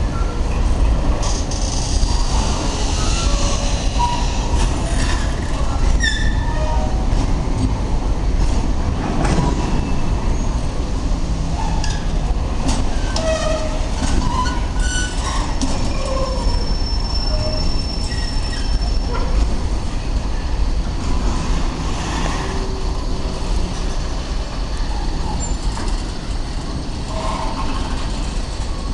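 Freight train moving on the track behind an ADIF 310-series shunting locomotive: a steady low rumble of rolling wagons with many short, scattered wheel squeals and clicks. A longer high squeal is held for a few seconds about midway.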